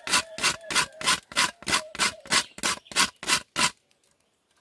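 Whole nutmeg being rasped on a large metal grater: about a dozen quick, even back-and-forth strokes, roughly three a second, stopping about three and a half seconds in.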